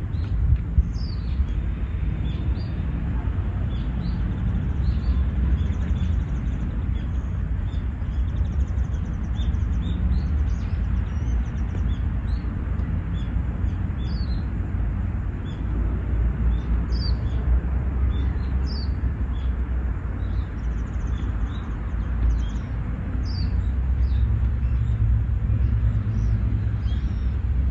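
Small birds chirping again and again with short high calls, over a steady low rumble.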